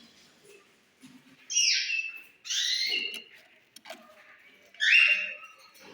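Pet parrot-type birds squawking: three loud, harsh calls about half a second each, the last near the end the loudest.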